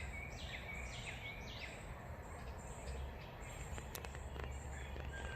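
A songbird singing a series of about four quick downslurred whistles in the first two seconds. Insects trill faintly and steadily in the background over a low outdoor rumble.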